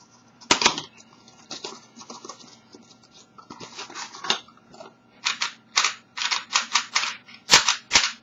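Plastic clicking and clacking from a Type A5 (Alpha 5) 3x3 puzzle cube being handled and turned, ending in a run of quick layer turns, about two to three a second.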